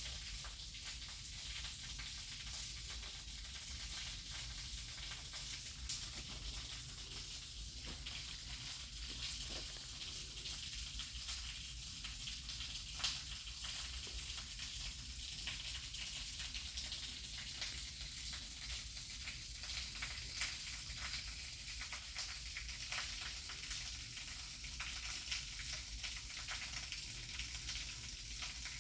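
Waterfall water pouring and splashing down, a steady crackling hiss with a low rumble underneath.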